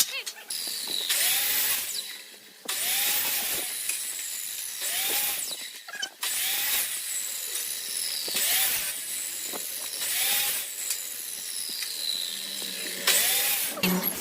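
A tool working wood in repeated strokes: about seven short, high-pitched scraping strokes, one every second and a half to two seconds.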